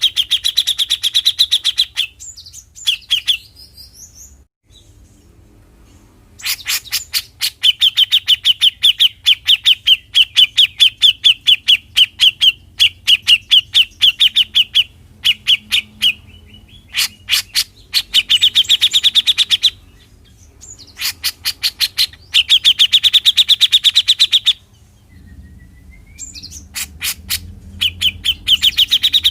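Cucak jenggot (grey-cheeked bulbul) giving its 'besetan' call: loud runs of rapid, evenly repeated chattering notes. It comes in several bouts, the longest lasting about eight seconds, with short pauses between them.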